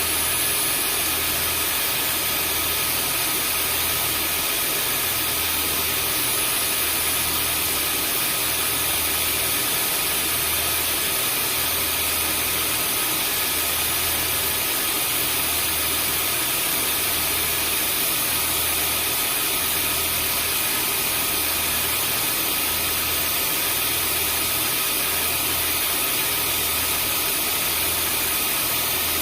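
Vacuum cleaner running steadily: an even rushing of air with a high motor whine on top, and a low hum underneath that swells and fades about once a second.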